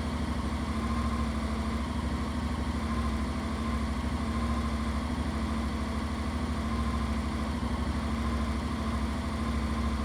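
Honda X-ADV's 745cc parallel-twin engine idling steadily, heard through its stock exhaust, with an even low pulse and no revving.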